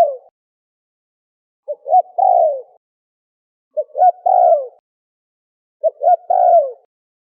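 Spotted dove (terkukur) cooing: three calls about two seconds apart, each two short coos followed by a longer falling coo.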